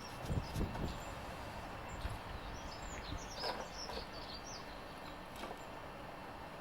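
A small songbird chirping a quick run of short high notes in the background, with a couple of low knocks about half a second in.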